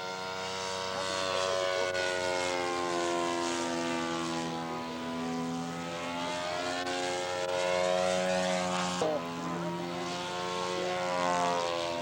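Radio-controlled scale model airplane's propeller engine running at steady power as the plane flies a low pass for a touch and go. There is an abrupt change about nine seconds in.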